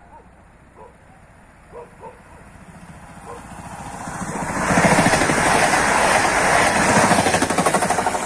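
Electric train approaching and passing close by at speed: its sound swells over a few seconds into a loud rush of wheel and rail noise with a rapid clatter, then begins to ease near the end.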